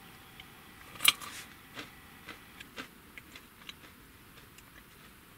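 A person chewing a crunchy snack close to the microphone: a sharp crunch about a second in, then a run of smaller, irregular crunches that thin out.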